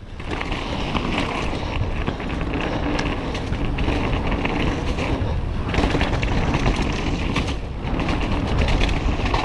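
Mountain bike ridden fast down a wet, muddy trail: a continuous rumble and rattle of tyres and bike with wind noise on the camera microphone, easing briefly a few times.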